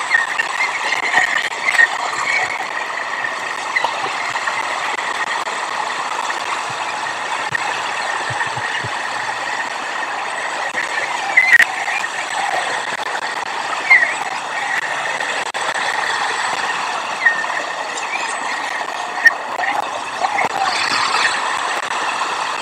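Steady rushing outdoor noise with short, high chirps every second or two and a few sharp clicks.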